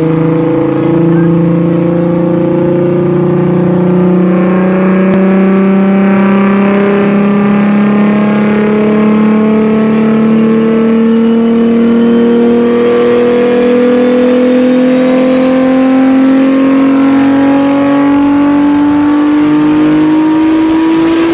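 Big single-turbo Toyota Supra's inline-six engine at full throttle on a chassis dyno, its pitch climbing slowly and evenly through a long pull. A faint high whine rises with it toward the end.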